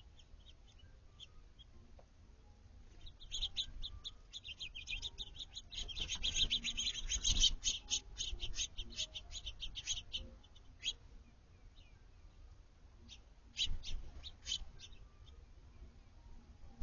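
Small backyard songbirds chirping: a run of short, sharp high chirps starts a few seconds in and thickens into dense chattering around the middle, then thins out, with another brief cluster of chirps near the end.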